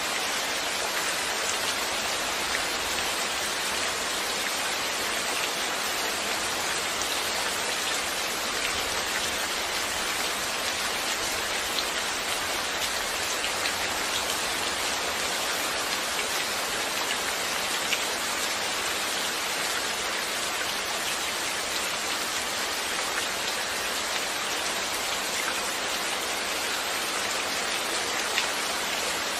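Steady rain falling and pattering on a surface, an even hiss with scattered single drops ticking through it.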